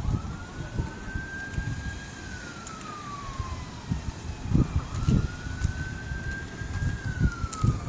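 Emergency vehicle siren wailing in two slow cycles, each rising and then falling in pitch over about four seconds, over low gusty rumbling on the microphone.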